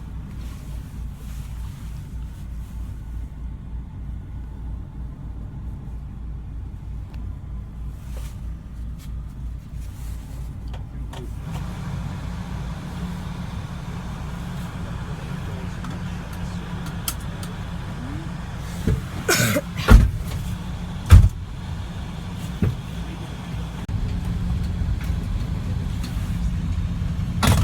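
Engine and road rumble of a moving police van heard from inside, a steady low drone that grows a little louder about a third of the way in. A few loud knocks come about two-thirds of the way through, and another near the end.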